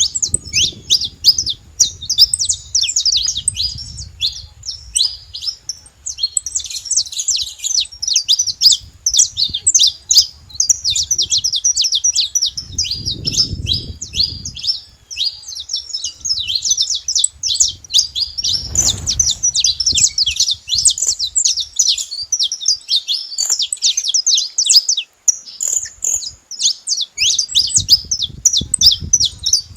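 Saffron finch singing: long, fast runs of high chirping notes with only a brief break a little before the end, over a faint low rumble now and then.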